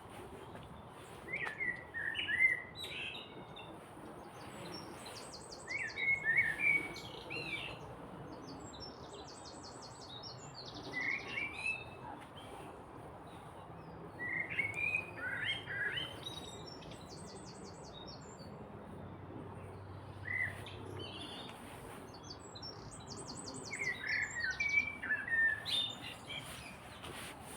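Small songbirds singing: short warbling phrases come every four to five seconds, with high, rapid trills from another bird between them, over a steady background hiss.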